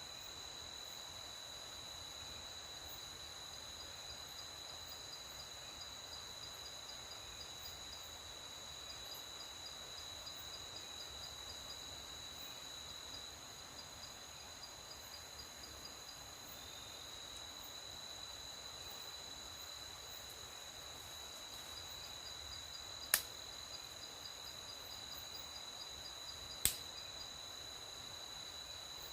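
Faint night chorus of insects such as crickets, a steady high-pitched trill that does not let up. Late on, two sharp clicks about three and a half seconds apart stand out as the loudest sounds.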